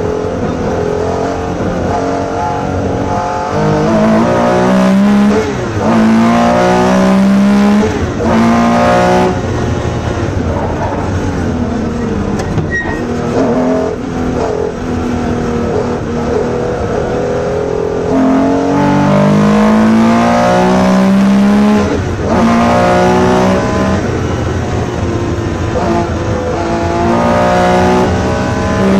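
A Porsche 911 RSR's flat-six engine, heard from inside the cockpit at rally pace. The revs climb hard again and again, dropping back at each gear change.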